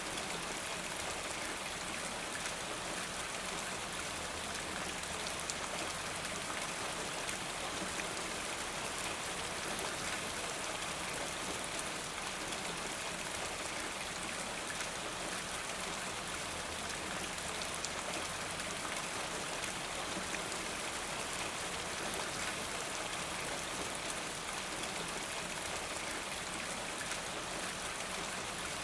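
Steady rainfall: an even hiss of rain with many fine, closely spaced drop ticks, unchanging throughout.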